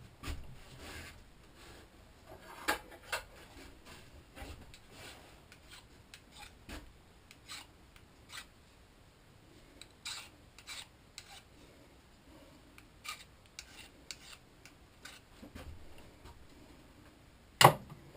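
Scattered rubbing and scraping strokes of hand work on an aluminum bracket, like filing metal off the part, with light clicks of handling in between. A sharp knock near the end.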